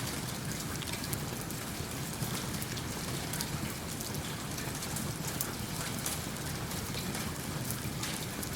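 Ambient mix of steady rain and a crackling fireplace: an even hiss with frequent small sharp crackles and ticks throughout.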